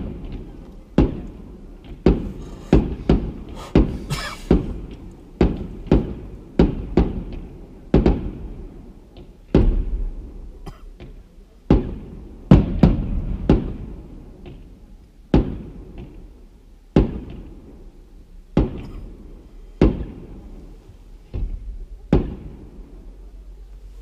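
Aerial fireworks shells bursting in a rapid, irregular volley of sharp bangs, about one a second, each trailing off in a short echoing rumble; the bangs thin out near the end.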